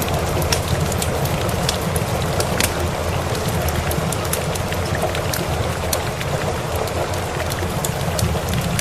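Steady rain with a low continuous rumble, mixed with the scattered sharp pops and crackles of a wood fire burning in a fireplace.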